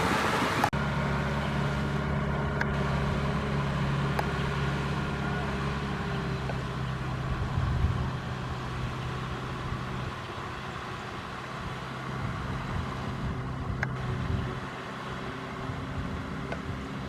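Kubota M6040SU tractor's diesel engine running steadily, dropping in level after about eight seconds. Under a second in, a rushing noise cuts off abruptly.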